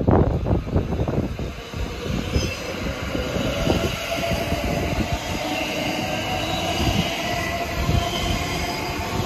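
Electric passenger train running along a station platform. It starts suddenly with a quick series of wheel knocks, then settles into steady running noise with a high wheel squeal.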